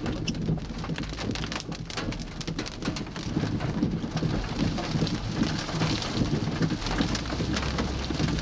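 Heavy rain pelting a moving vehicle, dense drops striking the roof and windshield, over a steady low rumble of engine and road noise.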